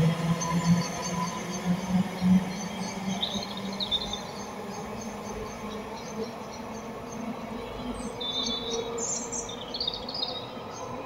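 A passenger train moving away down the line, its low, pulsing rumble fading out over the first two or three seconds. Short, high bird chirps come now and then through the rest.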